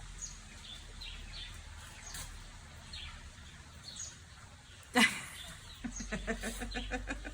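Small birds chirping, with short high chirps scattered throughout. About five seconds in, a loud call falls in pitch, followed by a fast, even run of clucks that sounds like a chicken.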